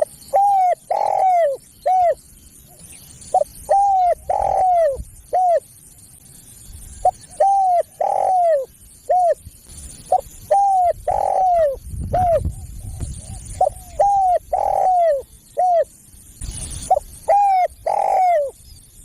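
Spotted dove (tekukur) cooing: a phrase of several short falling coo notes, repeated about every three and a half seconds, played as a lure call to draw in wild doves.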